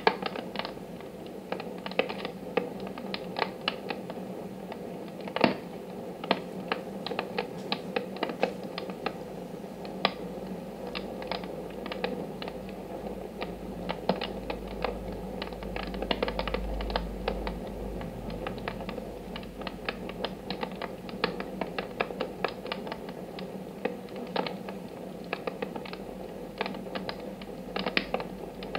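Wood fire in a fireplace stove crackling, with many irregular sharp pops and snaps; one louder pop about five and a half seconds in.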